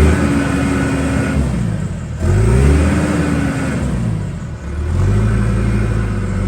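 John Deere 410J backhoe's diesel engine revving up as the machine drives off, easing back, then revving up again about two seconds in and settling to a steady run near the end.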